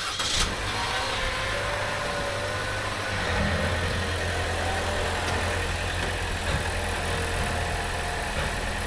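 A 2016 Chevy Trax's 1.4-litre turbocharged four-cylinder engine running steadily at low speed, fresh oil just added, as the car is backed off the ramps; a brief knock comes right at the start.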